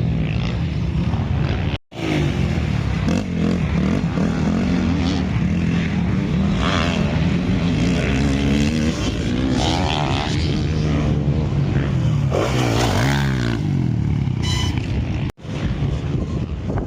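Several motocross bike engines revving and running at race speed, rising and falling in pitch as the bikes accelerate and pass. The sound cuts out abruptly twice, about two seconds in and near the end.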